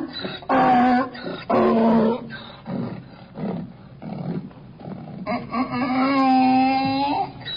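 Dog howling and whining: two short calls, softer whimpering sounds, then a longer held howl of about two seconds.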